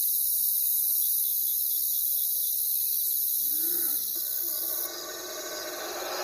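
Steady, high-pitched chorus of night insects with a fine, fast pulse. About three and a half seconds in there is a short, low animal call. The insect sound drops away near five seconds, and a louder owl call begins near the end.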